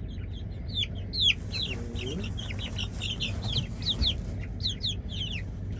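A group of young brown sex-link chicks peeping: a rapid, overlapping stream of short, high cheeps that fall in pitch, several birds at once.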